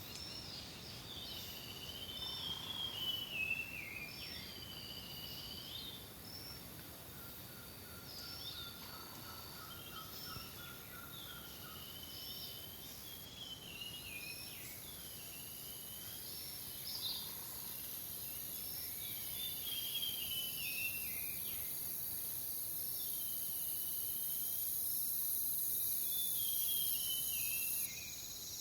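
A songbird singing short, swooping phrases that repeat every couple of seconds, over a steady high-pitched drone of insects. A second, lower trill runs for a few seconds near the middle.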